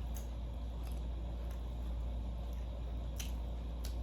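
A person chewing food, with a few faint wet mouth clicks, over a steady low hum.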